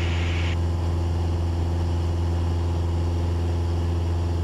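Cabin drone of a Cessna 172's four-cylinder Lycoming engine and propeller running steadily at climb power. A higher hiss cuts out about half a second in.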